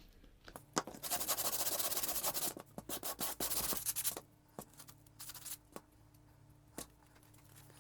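Hand sanding of a lacquered wooden coat hanger with a small sanding block, smoothing off dried construction adhesive: quick back-and-forth rasping strokes for about three seconds, a shorter run of strokes, then only a few light taps over a low hum.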